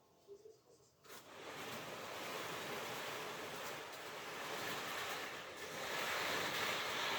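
Märklin HO model train running on its track: a steady rumbling noise starts about a second in and grows louder near the end as the train comes closer.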